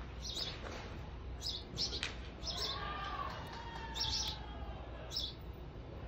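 A bird chirping: short, high chirps repeating every half second to a second. There is a sharp knock about two seconds in, and a softer, lower drawn-out call around the middle.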